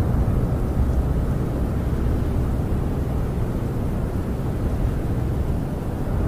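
Snowstorm wind blowing against a camper, heard from inside as a steady, deep rushing noise that swells and eases slightly.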